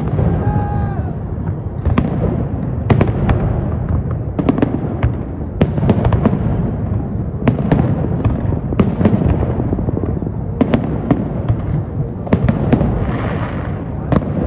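Fireworks salute: many sharp bangs and cracks at irregular intervals, several a second at times, over a continuous low rumble of bursts echoing.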